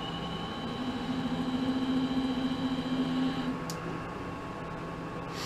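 Mini lathe running in forward while power tapping a 2-56 thread in brass hex stock, the tap running through the existing thread without cutting new ones. A steady motor whine stops about three and a half seconds in, followed by a sharp click, while a lower hum goes on.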